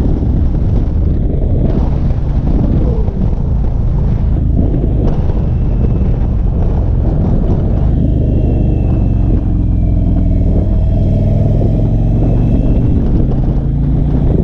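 Indian cruiser motorcycle's V-twin engine running steadily under way, heard from the rider's seat, with a brief change in engine pitch a few seconds in.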